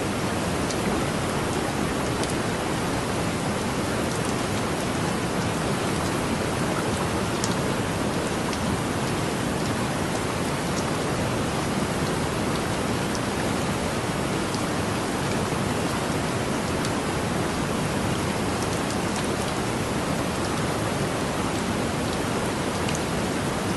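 Heavy rain falling steadily, a dense even hiss with faint drop ticks scattered through it.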